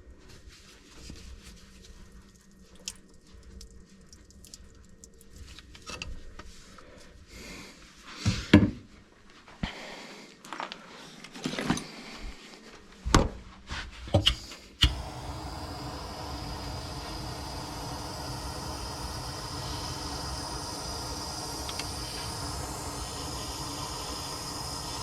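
Metal tools knocking and clicking against the plumbing a few times. About 15 s in, a steady hiss with a low hum starts suddenly: a heating tool warming the old tap fitting so it does not crack or leave its thread behind when unscrewed.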